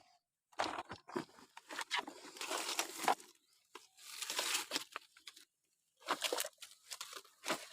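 Hands rummaging through dry, crinkly material in search of toys: irregular crinkling and crunching in short clusters, stopping briefly a few times.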